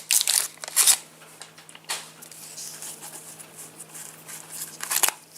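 Trading cards being handled and stacked on a table: short papery rustles and taps, several in the first second, one about two seconds in and another near the end, with soft card handling between.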